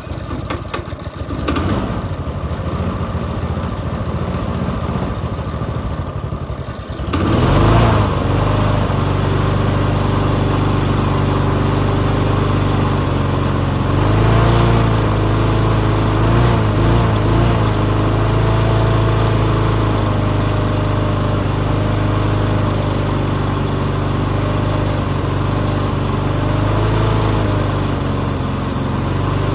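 Small lawn mower engine. For about the first seven seconds there is a rougher, noisier sound; then the engine settles into a steady run, its pitch wavering briefly about halfway through.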